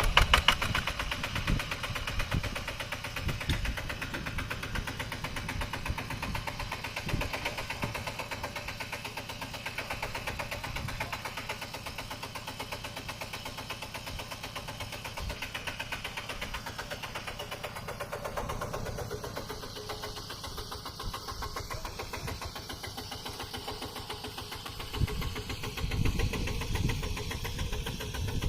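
Mini tractor's engine running with a fast, even chugging. It is louder at the start and again a few seconds before the end.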